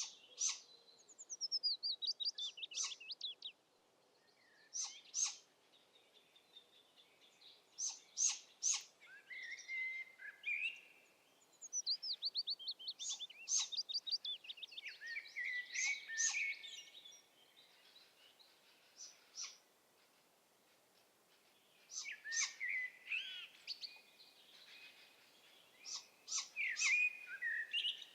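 Small songbirds singing: bouts of quick notes that fall in pitch, mixed with sharp high chips, repeated several times with short pauses between.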